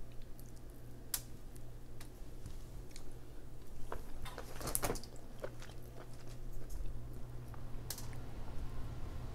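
Chewing of king crab meat, with a few sharp clicks as the cooked crab shell is picked apart by hand, over a faint steady low hum.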